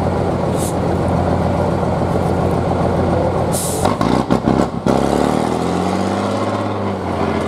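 Off-road competition truck's diesel engine running under load, with a short hiss of air brakes about halfway through, a few sharp knocks just after, then the engine note rising and falling as it revs.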